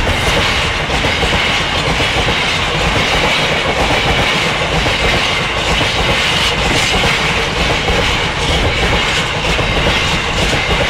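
Freight train passing close by at speed: the rear of a Class 66 diesel locomotive goes by at the start, then a long rake of tank wagons rolls past, their wheels clattering steadily over the rail joints. Loud and continuous.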